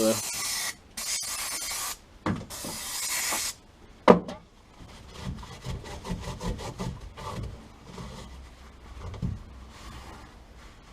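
Three loud bursts of hissing noise, each about a second long, then a sharp click, followed by quieter irregular rubbing and handling noises.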